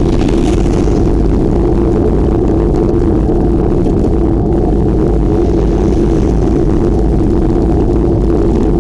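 Steady loud rumble of wind buffeting the microphone while riding a bicycle, with rolling noise underneath and no separate events.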